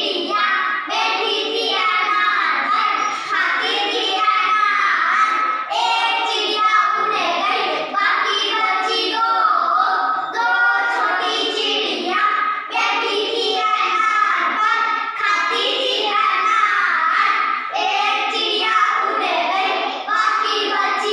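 Young children singing a Hindi counting rhyme about little birds, voices continuing without a break.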